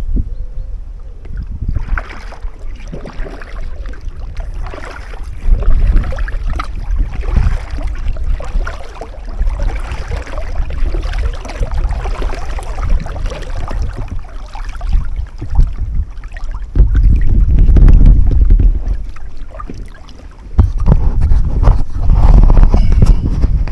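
Strong wind buffeting the microphone in gusts, a deep rumble that surges loudest near the middle and again near the end, over the splashing of water from a kayak being paddled.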